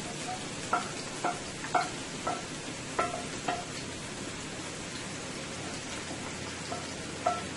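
Chopped onion, tomato, scallion and herbs sizzling steadily in hot olive oil in a pot, while a utensil knocks against the serving plate to clear it, about six sharp ringing clinks in the first few seconds and one more near the end.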